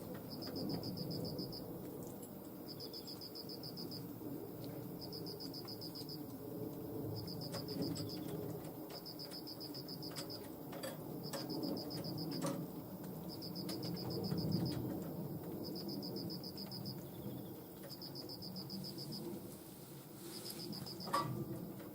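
A cricket chirping: high, pulsed trills of about a second each, repeating every second or two, over a low background rumble with a few scattered clicks.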